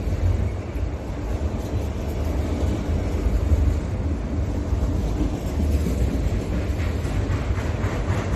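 A train passing close by on track that runs down the middle of a street: a loud, steady low rumble.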